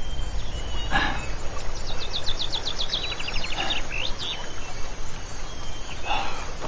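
Outdoor ambience: a steady noise bed with a bird singing a fast trill of short repeated notes about two seconds in, and a few short soft noises.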